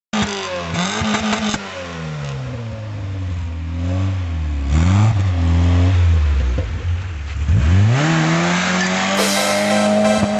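Renault Clio's engine revving hard, heard from outside the car, its pitch rising and falling several times as it pulls away on a muddy track, then held high from about eight seconds in.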